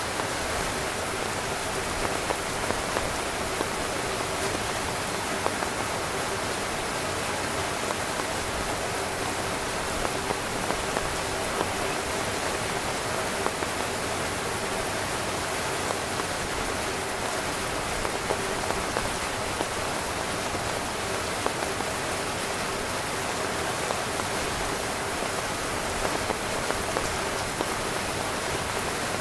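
Heavy rain falling on a tent: a steady, dense patter with many single louder drops scattered through it.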